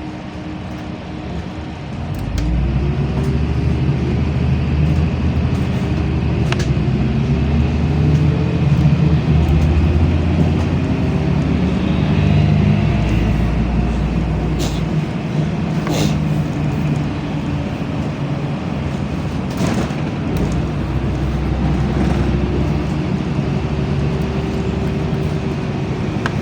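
LiAZ-5292.65 city bus heard from inside the cabin, getting louder about two seconds in as it pulls away and accelerates. The engine note rises and falls several times through the gear changes over a heavy low rumble, with a few sharp knocks and rattles from the body.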